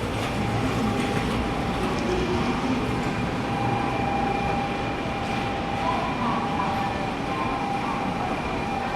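Shinkansen bullet train running alongside a station platform: a steady rumble with a constant high-pitched whine.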